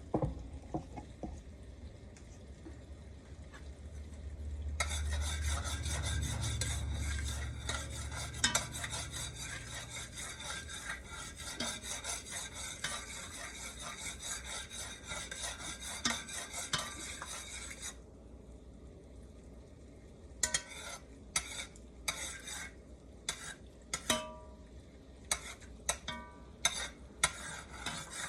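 Sugar caramelizing in hot oil in a pot, sizzling and crackling, with a spoon stirring it. The sizzle is dense from about five seconds in and drops away about two-thirds of the way through, leaving separate scrapes and taps of the spoon against the pot.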